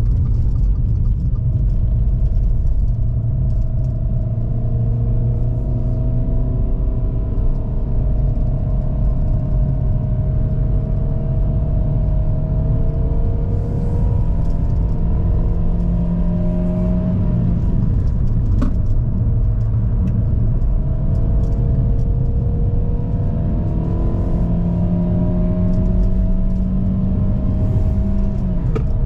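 GAC GS3's 1.5-litre naturally aspirated petrol engine pulling uphill under load, its revs climbing slowly, dropping sharply about two-thirds of the way through, then climbing again and dropping once more near the end. A steady low road rumble runs underneath.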